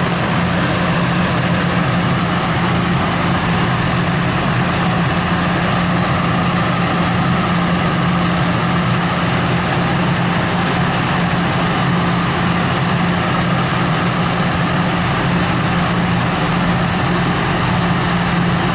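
Diesel locomotive of a MARC commuter train running steadily, a constant low engine hum with no change in pitch or level.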